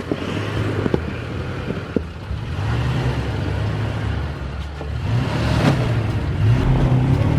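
A vehicle's engine running and revving unevenly as the driver tries to drive the stuck vehicle free, getting louder over the last couple of seconds.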